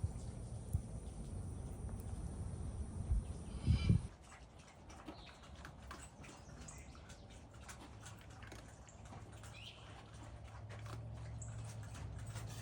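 Low wind and handling rumble on the microphone, then, from about four seconds in, faint scattered bird chirps and small clicks over a steady low hum.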